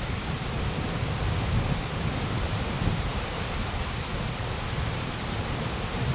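Wind buffeting the microphone outdoors: a steady rushing hiss with an uneven low rumble.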